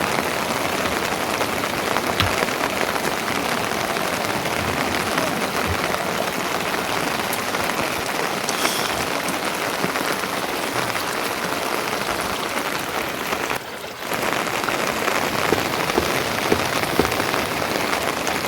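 Steady heavy rain falling, a dense even patter that drops away briefly about two-thirds of the way through.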